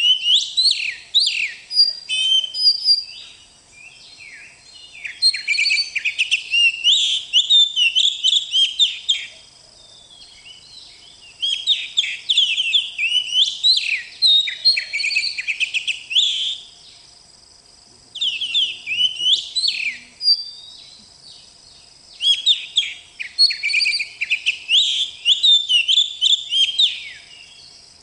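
Oriental magpie-robin (kacer) singing: bursts of rapid, varied whistled and chirping phrases lasting a few seconds each, with brief pauses between them.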